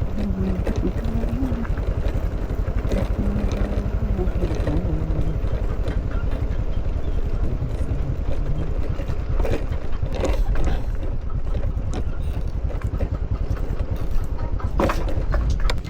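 Motorcycle engine running while riding, a steady low rumble with its pitch wavering a little. There are a few sharp knocks about ten and fifteen seconds in.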